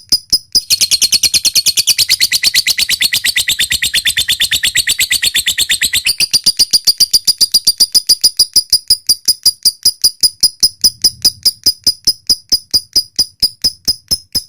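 Lovebird calling. It opens with a rapid, sharp, high ticking at about five ticks a second. About a second in this breaks into a long, dense, high chattering trill lasting about five seconds, then falls back to the steady ticking. This is the ticking-then-long-chatter call ('ngetik lanjut ngekek panjang') that keepers play to get other lovebirds calling.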